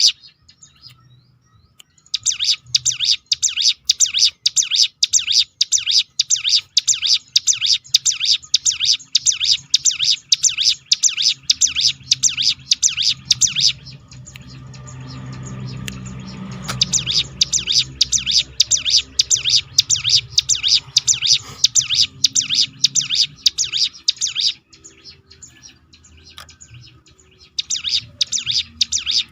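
Ciblek gunung (hill prinia) singing its rapid rolling 'tembakan' song: long runs of sharp, quickly repeated chattering notes, breaking off twice for a few seconds. A low rumble rises under the song around the middle.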